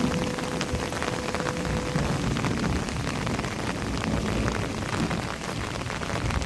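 Steady rain falling, with many individual drops ticking as they hit surfaces.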